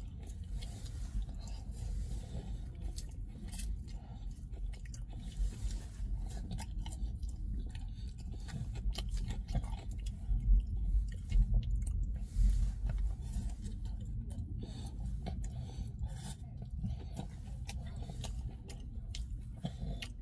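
A person chewing mouthfuls of doner kebab close to the microphone, with many short clicks throughout.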